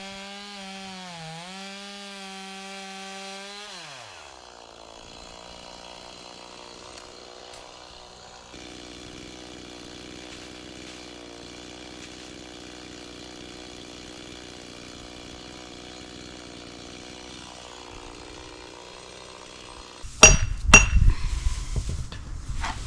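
Stihl chainsaw running at high speed with a brief dip in pitch, then winding down about four seconds in and idling steadily. Near the end come a couple of loud sharp knocks.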